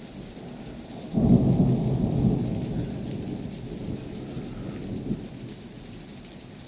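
Thunder over steady rain: about a second in, a sudden loud low rumble breaks out, then rolls on and fades away over about four seconds.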